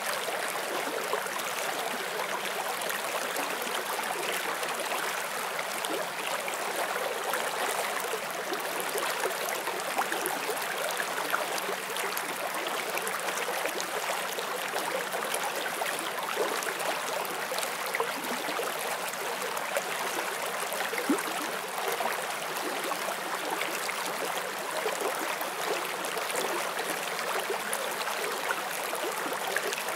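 Small forest stream flowing over stones: a steady, even rush of water with light splashing and gurgling throughout.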